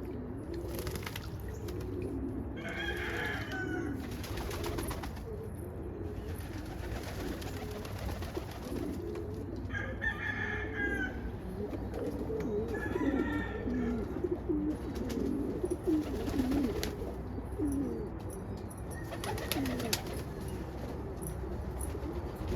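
Pigeons cooing over one another, with a few short, higher-pitched bird calls breaking in.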